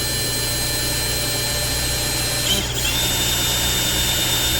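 Milwaukee M12 cordless drill running steadily, a tile bit grinding into slate, with a high motor whine. About halfway through there is a brief wobble, and the whine then settles slightly lower in pitch.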